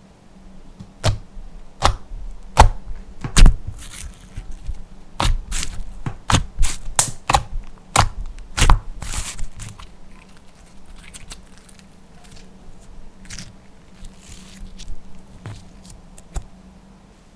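Slime being pressed and worked by hand, giving irregular sharp pops and crackles that come thick and loud for the first ten seconds or so, then sparser and softer.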